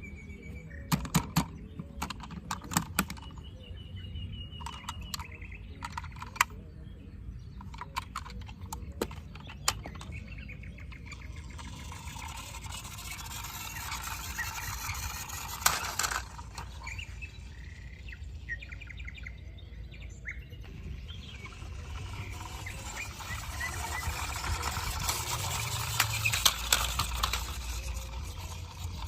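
Birds chirping in short calls, mixed with scattered sharp clicks and knocks. From about twelve seconds in, a steady noisy rush takes over and grows louder toward the end.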